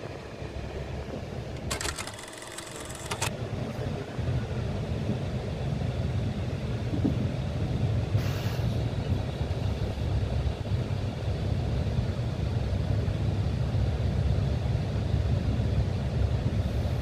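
Steady low rumble of a TER commuter train, heard from inside the carriage as it runs into a station. It grows louder from about four seconds in. About two seconds in, a short rattle of closely spaced clicks lasts a second or so.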